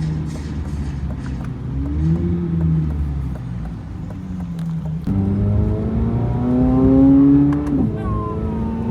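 Chevrolet Corvette C8 Z06's 5.5-litre flat-plane-crank V8 under way, running steadily at first. About five seconds in the revs step up and climb under acceleration, loudest a little before the end. They then drop sharply as it shifts up a gear.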